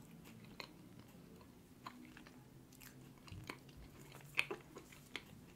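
Faint chewing of a soft caramel-glazed, cream-filled doughnut: scattered small mouth clicks and smacks, the loudest about four and a half seconds in.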